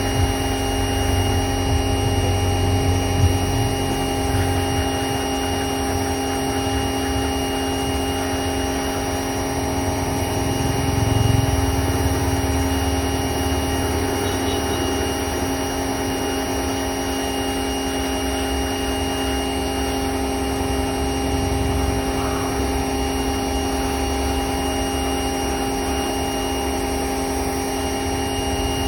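A motor running steadily with a constant hum, several fixed tones held unchanged, over a low rumble.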